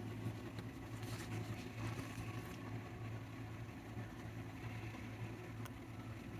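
A steady low hum with a few faint rustles and clicks, mostly about one to two and a half seconds in, and one more click near the end.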